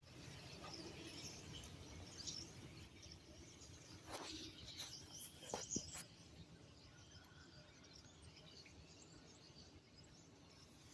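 Faint bird chirps over low background noise, with a few brief clicks about halfway through.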